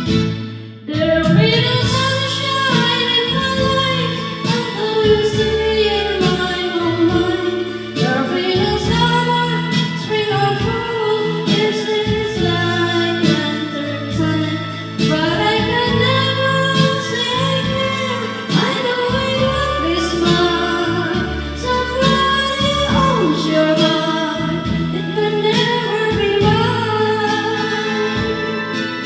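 A woman singing a slow song over a karaoke backing track, the music dipping briefly about half a second in before the singing picks up again.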